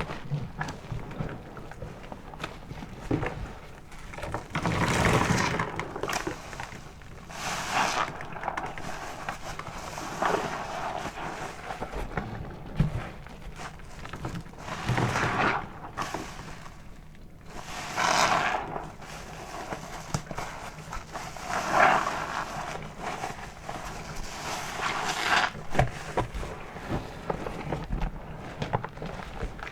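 A car wash sponge soaked with soapy body-wash lather being squeezed and released over and over: wet squelches and foam crackle, about seven strong squeezes a few seconds apart, with quieter squishing between them.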